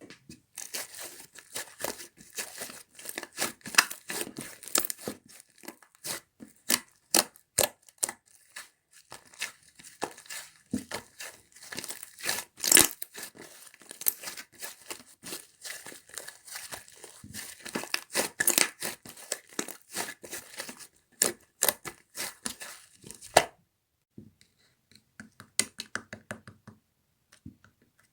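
Slime being squeezed and kneaded by hand: a dense run of sticky crackles and pops, thinning to a few softer clicks for the last few seconds.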